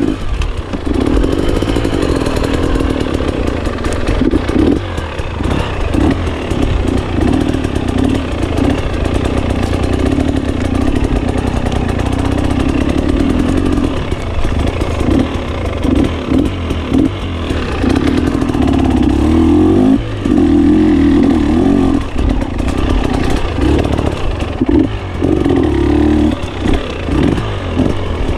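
GasGas 300 two-stroke enduro motorcycle being ridden, the engine revving up and dropping back over and over as the throttle is opened and closed.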